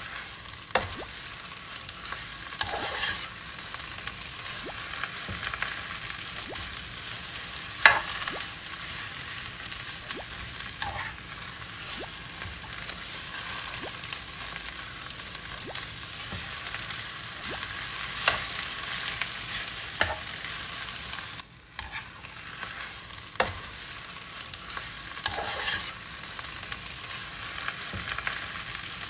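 Food sizzling and frying in a hot pan, a steady hiss with occasional clicks and scrapes of a utensil stirring. The sizzle drops briefly about three-quarters of the way through.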